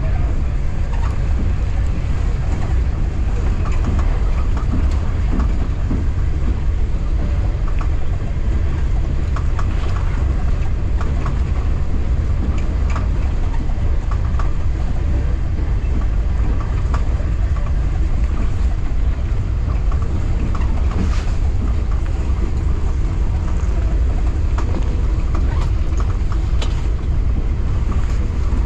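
Passenger train heard from inside the carriage: a steady low rumble with scattered rattles and clicks.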